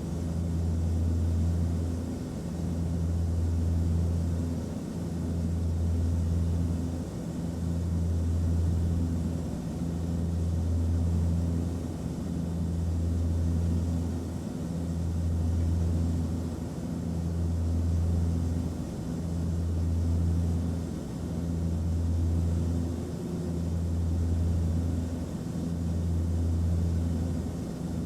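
Airliner cabin noise in flight: a steady low engine and airflow drone with a faint hiss above it. It swells and eases evenly about every two and a half seconds.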